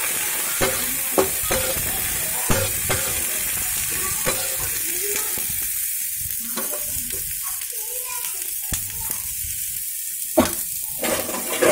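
Potato sticks and onions sizzling steadily in oil in a metal kadhai, while a spatula stirs them, knocking and scraping against the pan in scattered clicks, more often in the first few seconds and again near the end.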